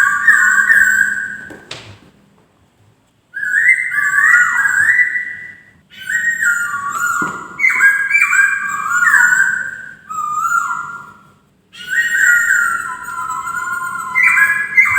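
Poksay singing: bouts of loud, rich, whistled phrases that glide up and down, broken by two short pauses.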